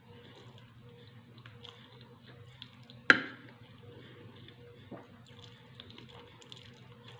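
Close-up eating sounds: soft wet chewing and small clicks, with one sharp knock that rings briefly about three seconds in and a lighter one about two seconds later, as of a utensil against a dish. A steady low hum runs underneath.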